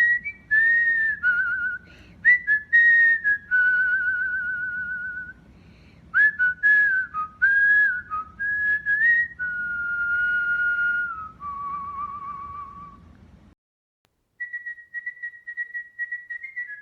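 Cockatiel whistling its song: a run of clear whistled notes that glide and warble, with short clicks between phrases. Near the end, after a brief gap, one steady high whistle is held.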